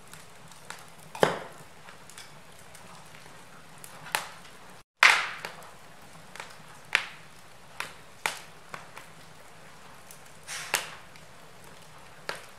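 Wood fire burning in a fireplace, with sharp crackles and pops every second or so over a faint steady hiss. The loudest pop comes about five seconds in, just after a split second of silence.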